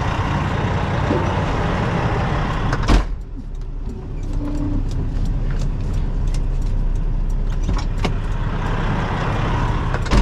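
Semi truck's diesel engine running steadily, heard from the cab as the tractor-trailer moves off. A sharp knock cuts through about three seconds in and again near the end, with faint clicks between.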